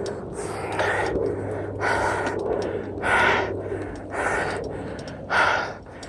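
A mountain biker breathing hard and heavily, about one loud breath a second: out of breath from exertion on the ride.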